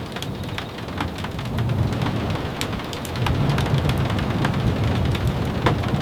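Steady rain ambience with a low rumble that swells about a second and a half in and again about three seconds in, and scattered sharp ticks.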